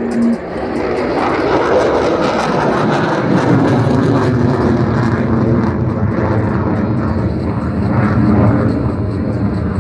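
Loud, steady jet noise from an F-22 Raptor's twin Pratt & Whitney F119 turbofan engines, building over the first second and holding.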